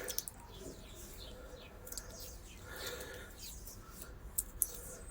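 Faint bird chirps, with a couple of light clicks near the end.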